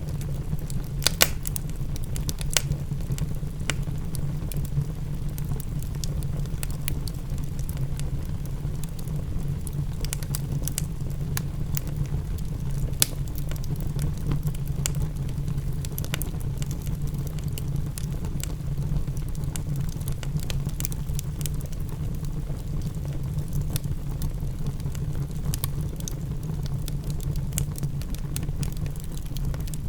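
Fireplace crackling, with scattered sharp pops over a steady low rumble. A few louder pops come about a second in and again near thirteen seconds.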